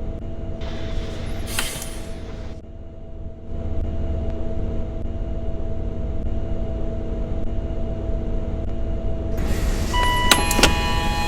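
Scania K230UB single-deck bus's five-cylinder diesel engine running with a steady hum at a standstill. A hiss of air with a click comes about a second in, and near the end a louder hiss with a series of short high electronic tones.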